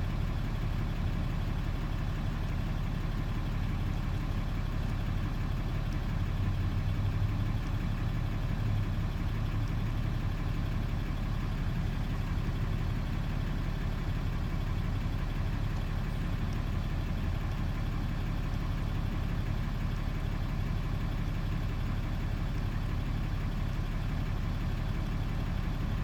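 Dodge pickup truck's engine idling steadily, a low, even hum.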